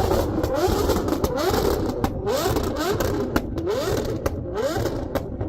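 A car engine revved hard over and over, its pitch climbing on each rev about twice a second, with sharp exhaust pops and cracks between the revs.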